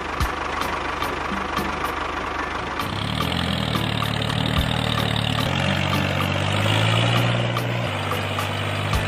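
A small motor running, with a low drone that comes in about three seconds in and shifts pitch twice.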